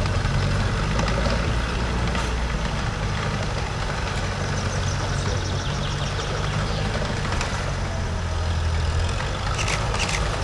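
Air-cooled flat-four engine of a wartime Volkswagen military vehicle running steadily at low revs. A few sharp clicks come near the end.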